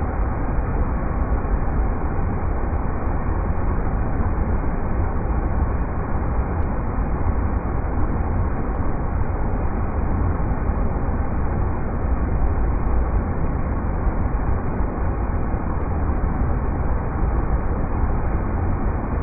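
River rapids rushing in a steady, unbroken wash of noise that is heaviest in the deep bass.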